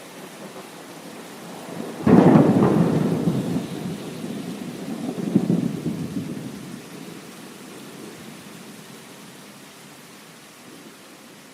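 Steady heavy rain with a clap of thunder about two seconds in that rolls on as a rumble, swells once more and dies away over several seconds.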